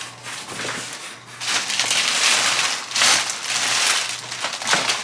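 Packaging being handled, crinkling and rustling. It gets louder about a second and a half in and keeps on in bursts.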